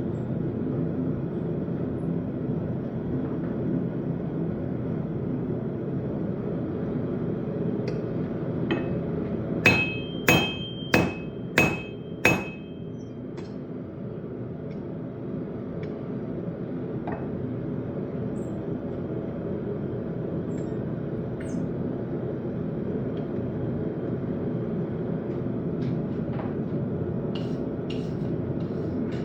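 Five hammer blows on a railroad spike at the anvil, a little over half a second apart, about ten seconds in, each leaving a short bright ring; a steady low roar runs underneath, with a few faint light taps later on.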